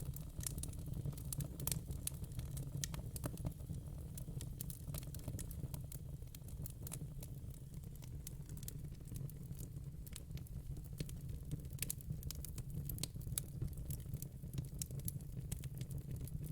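Fire crackling: irregular small pops and snaps over a steady low rumble.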